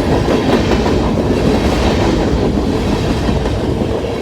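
CSX freight train's cars rolling past at speed, a steady loud rumble and rattle of wheels on the rails with clickety-clack over the rail joints.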